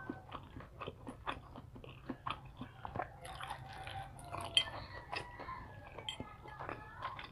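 Close-miked chewing of deep-fried Filipino street food (fish balls, kikiam and fried tofu): wet mouth sounds with frequent small crunches and clicks.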